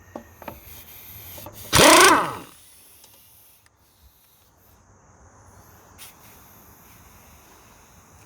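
Hand tools clicking against the ATV's rear sprocket bolts, with one loud short burst about two seconds in. Crickets chirp steadily underneath.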